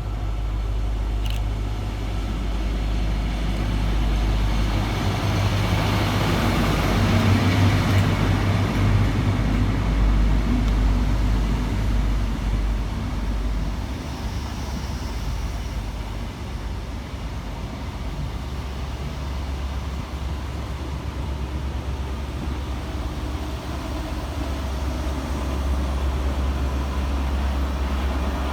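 ScotRail High Speed Train with Class 43 diesel power cars, MTU V16 engines, arriving into the platform: engine drone and wheel noise swell as it passes, loudest about a third of the way in, then settle to a steady low engine hum as it slows and stands.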